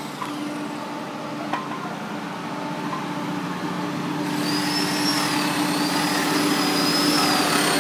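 A large drying machine running with a steady mechanical hum that grows slowly louder. A high, wavering whine joins in about four seconds in.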